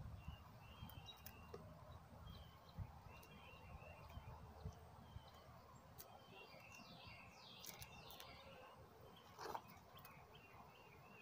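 Faint, short bird chirps repeating, with a few soft knocks and a brief rustle about nine and a half seconds in.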